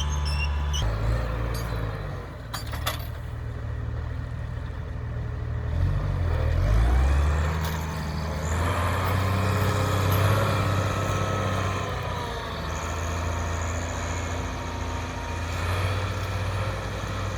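Case IH 1056 XL tractor's six-cylinder diesel engine running steadily while ploughing. Its note dips and climbs back about six to seven seconds in.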